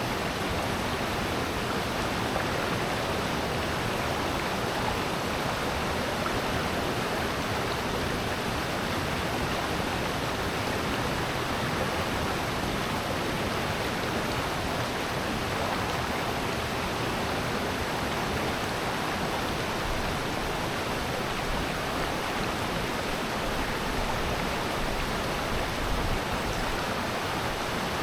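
Rushing water of a valley stream, a steady, unbroken wash of sound that does not change.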